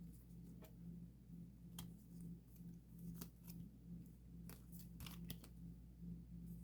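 Faint, irregular small clicks and light rustles of hands handling photocards and their plastic sleeves, over a low hum.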